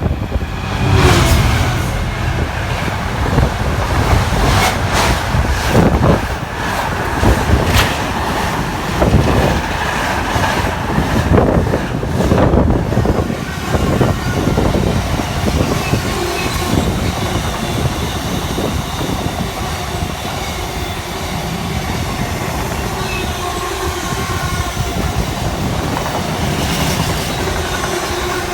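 A train passing, its wheels clattering over the rail joints for roughly the first half, then a steady rumble.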